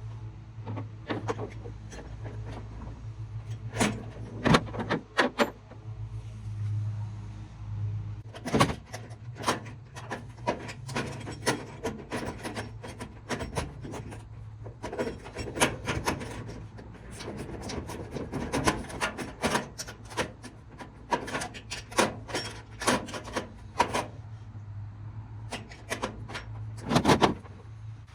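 Irregular clicking, knocking and scraping of hand tools on metal as a truck tool box's mounting clamps are fastened down along one side, over a steady low hum.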